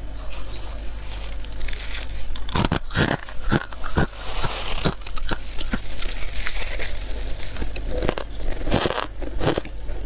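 Freezer frost being bitten and chewed: irregular soft, powdery crunches, with a denser crackling stretch of chewing a few seconds in.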